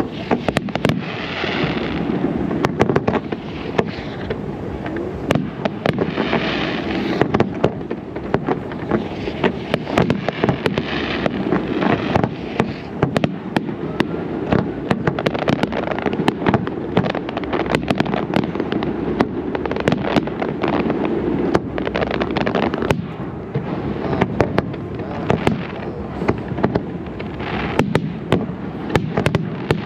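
Aerial fireworks show at full pace: sharp shell bursts many times a second over a continuous rumble and crackle.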